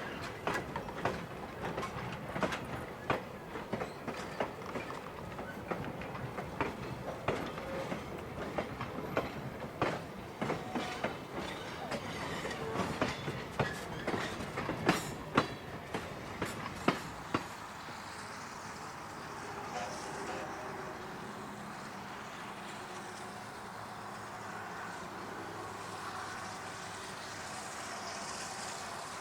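Train wheels clicking over rail joints in an irregular clickety-clack. The clicks stop about two-thirds of the way through, leaving a steady rushing noise.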